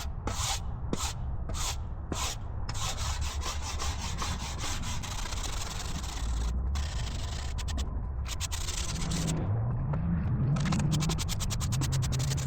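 Wire brush scrubbing dirt off an old weathered barnwood board: back-and-forth strokes about two a second at first, then a faster, near-continuous scrubbing. A faint low hum rises and falls near the end.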